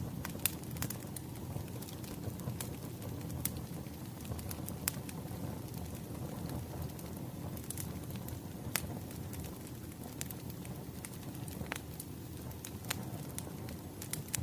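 Firewood crackling as it burns: a steady low rumble of flames with irregular sharp pops and snaps.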